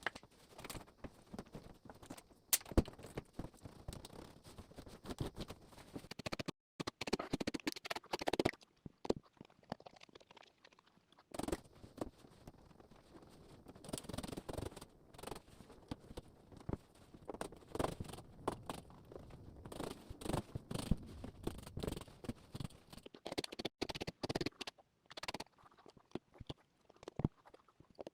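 Irregular scratching, scraping and light knocks from hand work on carpet, with short quiet gaps between bursts of activity.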